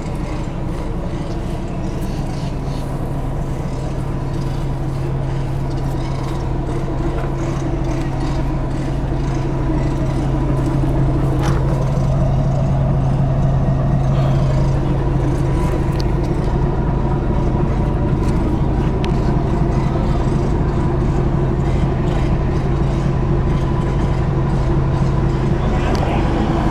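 A bus engine running steadily with a deep, even rumble and hum, getting a little louder from about halfway.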